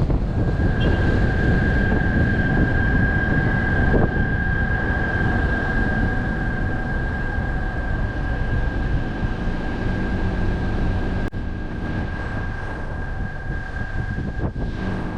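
Steady low rumble of a moving vehicle with a constant high-pitched whine over it; a sharp click about eleven seconds in, after which it runs a little quieter.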